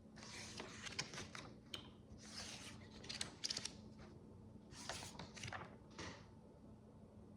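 Micro bricks (tiny plastic building bricks) being handled: several short bursts of rustling as pieces are sifted and picked through, with a few sharp small clicks.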